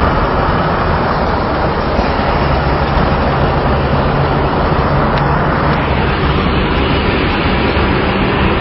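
A truck driving on the road with one wheel missing: steady, loud road and traffic noise with a low engine drone underneath.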